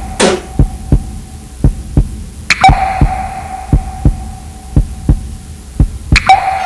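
Heartbeat sound effect in a film soundtrack: a steady low thump about twice a second, with a sharp hit three times, each leaving a ringing tone that slowly fades.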